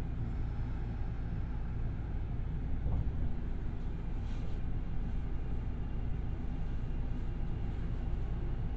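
Kintetsu 1021-series electric train running, heard from inside the car: a steady low rumble.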